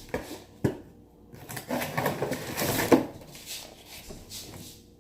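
Things being handled close to the microphone: two sharp clicks in the first second, then about a second and a half of rustling that ends in a sharp knock near three seconds in, followed by quieter handling noise.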